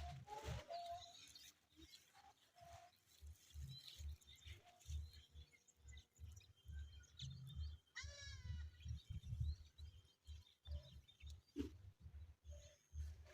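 A goat bleats once, faintly, about eight seconds in, its call rising and then falling in pitch. Low, irregular thuds run underneath.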